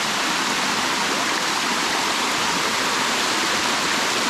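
Water rushing over the rocks of a waterfall, heard up close as a steady, even rush.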